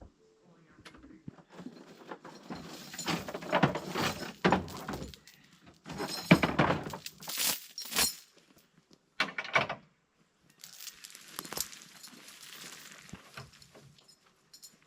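Woody honeysuckle brush crackling and snapping in irregular loud bursts as it is torn out, easing to a softer rustle near the end.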